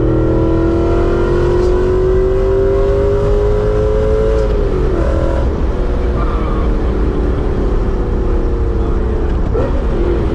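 Supercharged BMW S62 4.9-litre V8 with a straight-piped exhaust pulling under acceleration. Its note rises steadily for about four seconds, drops sharply at a gear change, holds fairly steady, then dips again at another shift near the end.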